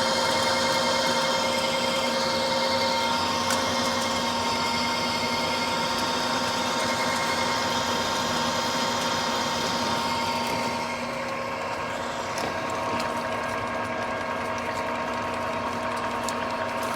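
Precision Matthews lathe running under power feed while a left-hand turning tool cuts the rough water-jet-cut edge of a pipe flange: a steady machine hum with several constant whining tones and the hiss of the cut, which thins out about eleven seconds in.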